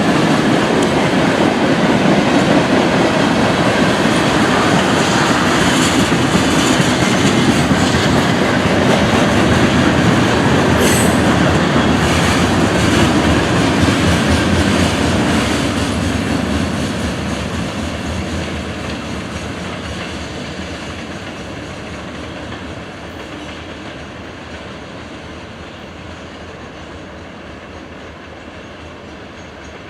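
Passenger train running past on the track: loud, steady rail and wheel noise for about half the time, then fading steadily as the train moves away.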